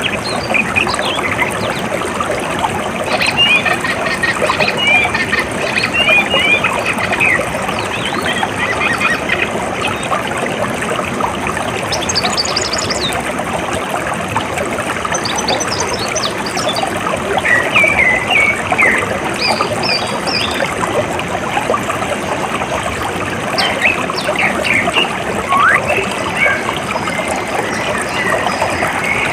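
Steady trickle of flowing water, with bird calls scattered over it: short runs of chirps a few seconds in, around the middle, and again near the end.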